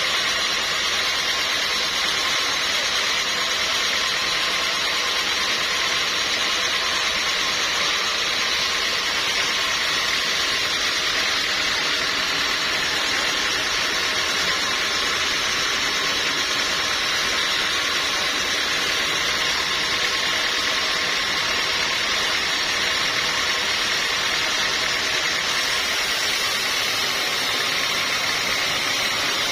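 Sawmill machinery running steadily, a constant mechanical drone with a strong hiss and no pauses or impacts.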